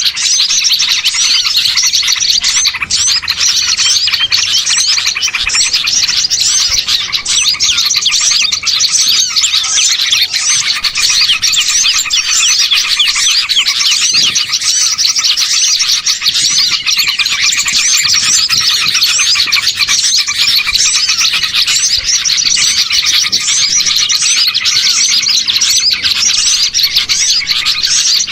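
Dense, continuous chorus of many small songbirds chirping and twittering all at once: a bird-luring (pikat) call recording meant to draw wild small birds in.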